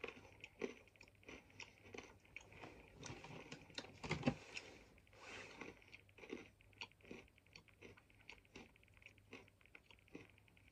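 Mouth-close chewing of sweet potato crisps: a run of small crisp crunches and wet mouth clicks, densest with the loudest crunch about four seconds in, then thinning to slower, softer chews.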